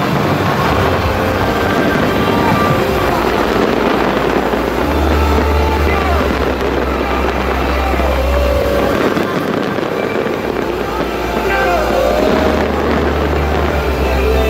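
New Year's Eve fireworks display: a dense, continuous din of bursts with heavy low rumbling that swells and eases, mixed with crowd voices and music.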